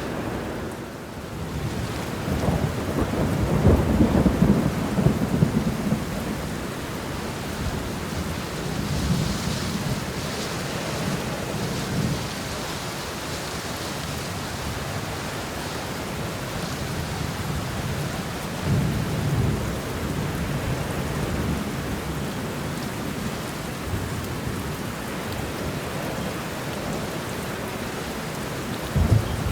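Steady rain falling, with thunder rumbling several times over it, the longest and loudest roll a few seconds in.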